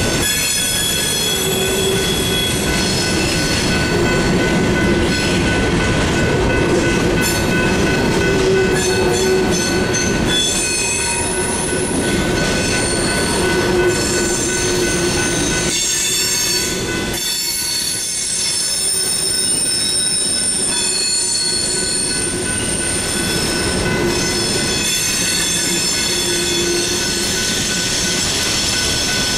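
Empty covered grain hopper cars of a freight train rolling past over the crossing, wheels squealing in high-pitched tones that come and go over the steady rumble of the cars.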